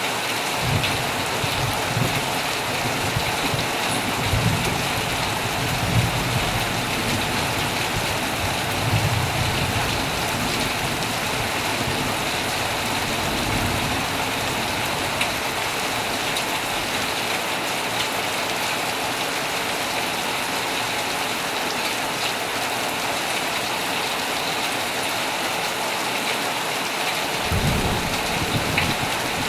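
Heavy rain falling steadily on a tent, with low rolls of distant thunder through the first half and again near the end.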